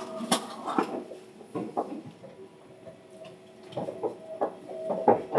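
Inside a Seibu 10000 series train running slowly: irregular clacks and knocks from the wheels over rail joints and points, over a faint steady hum.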